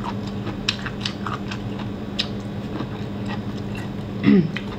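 Close-up eating sounds of cold-dressed wakame seaweed salad: wet, irregular crunching and smacking as a mouthful is bitten and chewed. A brief hummed voice sound comes a little after four seconds.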